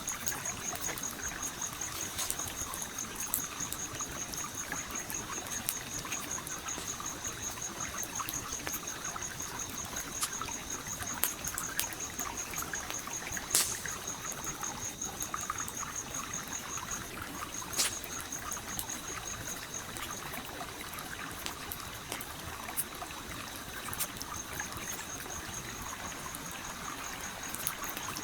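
A stream flowing steadily, with a campfire crackling over it in scattered sharp pops. Two louder pops stand out, about halfway through and a few seconds later.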